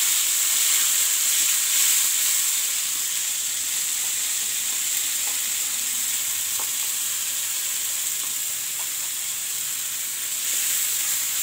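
Tomato and dried red chilli chutney sizzling as it hits hot oil and fried garlic in a pan, stirred with a wooden spoon. It is a steady high hiss that eases a little toward the end.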